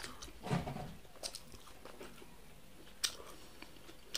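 Close-up mouth sounds of chewing roasted corn on the cob: crunchy bites and chewing, with scattered short clicks and one sharper click about three seconds in.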